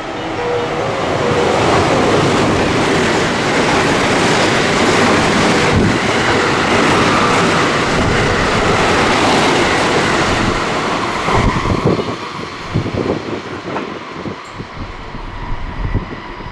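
An electric train running through a station at speed without stopping. The rush of wheels and air builds over the first two seconds and holds for about ten seconds, then tails off into uneven wheel clatter over the rails.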